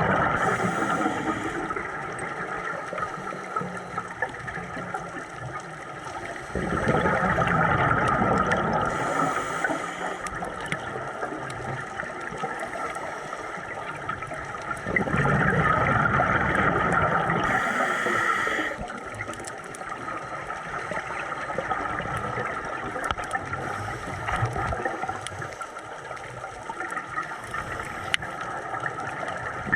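Scuba diver breathing through a regulator underwater: surges of exhaled bubbles gurgling past the camera roughly every eight seconds, with quieter stretches of steady hiss between them.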